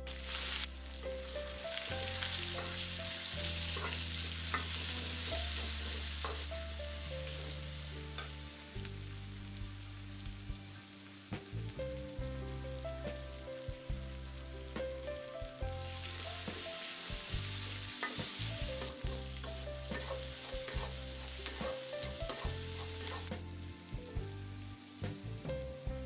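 Chopped onion dropped into hot oil in a kadai, sizzling loudly, then frying as a metal spatula scrapes and stirs it around the pan. A second loud stretch of sizzling comes about two-thirds of the way through.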